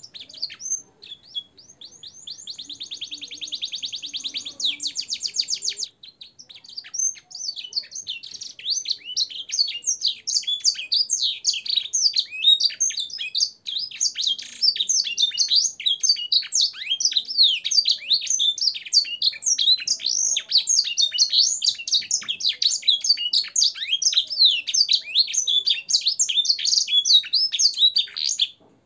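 Domestic canary singing a long, continuous song filled with learned black-throated canary and edel sanger phrases. It opens with a fast, buzzy trill of rapidly repeated notes, breaks off about six seconds in, then runs on as a dense stream of quick, varied chirps and warbles that stops abruptly near the end.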